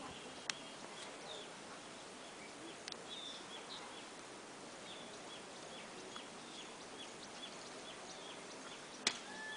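Outdoor background noise with a small bird calling in short, high, falling chirps repeated several times a second. There are two sharp clicks, one just after the start and one near the end.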